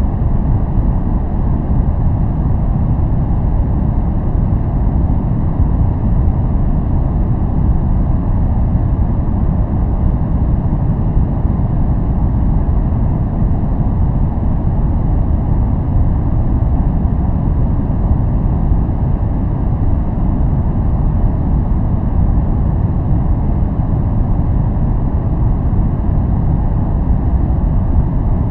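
Continuous noise track sold as white noise, steady and unchanging, deep and muffled with most of its weight in the low end and little treble.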